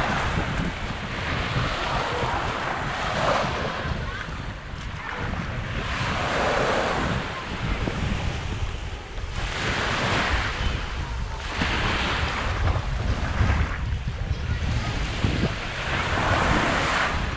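Small waves breaking and washing up on a sandy beach, swelling and fading every few seconds, with wind rumbling on the microphone.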